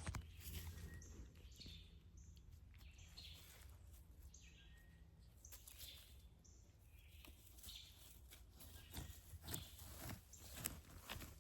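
Quiet forest ambience: faint, scattered short bird chirps over a low steady rumble, with a few soft clicks and crackles near the end.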